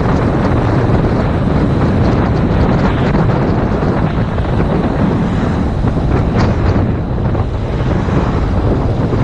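Heavy wind buffeting on a GoPro microphone at riding speed on a motorcycle, a dense steady rumble that covers most other sound.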